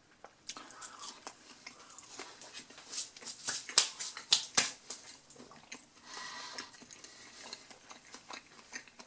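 Someone biting into and chewing a breaded mozzarella stick, with a run of crisp crunches about three to five seconds in.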